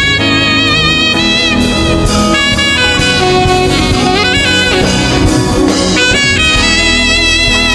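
Saxophone playing a melodic worship solo, held notes with vibrato and quick runs of notes in the middle, over the accompaniment of a live gospel band.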